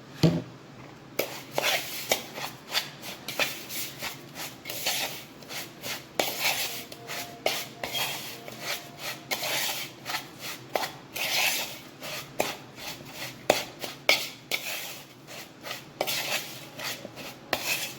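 A spoon stirring and scraping a thick crumble-topping mixture of butter and sugar around a bowl, in irregular gritty strokes with sharp clicks of the spoon against the bowl. It opens with a knock.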